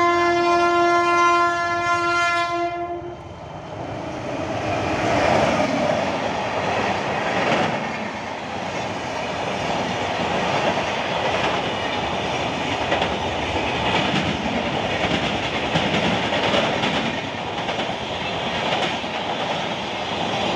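Indian Railways express train sounding one long horn blast for about three seconds, then its red passenger coaches passing at speed with a steady rumble and the clatter of wheels over rail joints.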